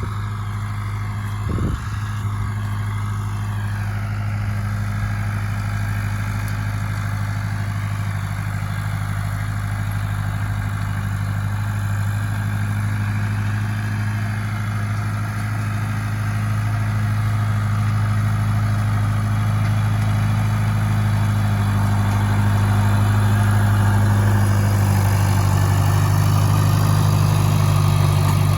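John Deere 2040S tractor's diesel engine running steadily while raking hay, growing gradually louder, with a brief knock about a second and a half in.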